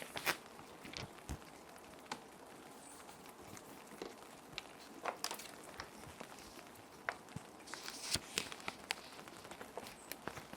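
Plastic sheet protectors crinkling and rustling as paper sheets are handled and slid into them, in irregular sharp crackles and taps, over a steady hiss of rain.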